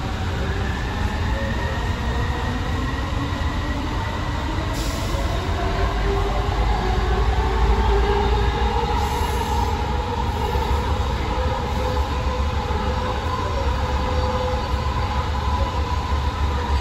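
AirTrain JFK car running along its elevated guideway, heard from inside the car: a steady low rumble with drawn-out squealing tones that slowly drift in pitch as the train rounds the curves, a little louder in the middle.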